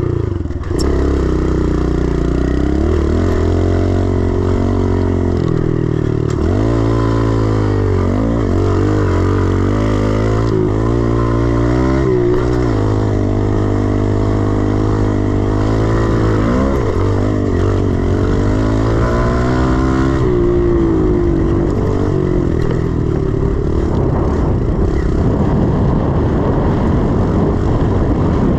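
A 110cc four-stroke pit bike engine being ridden hard, its pitch climbing and dropping again and again as the throttle is worked and it shifts. From about twenty seconds in, it runs more evenly under a rougher rushing noise.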